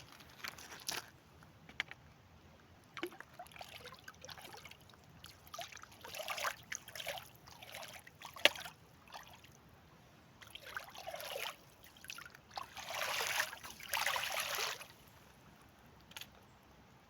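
Water sloshing and splashing in irregular swells, with scattered sharp clicks; the longest, loudest swell comes about two-thirds of the way through.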